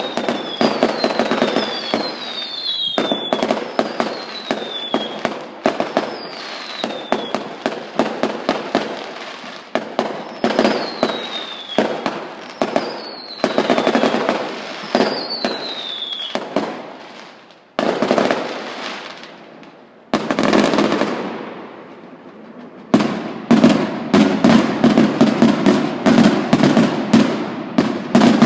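Fireworks going off in rapid crackling bangs, with a string of short whistles falling in pitch through the first half. After a brief lull with a couple of single bangs, a dense, loud barrage builds near the end.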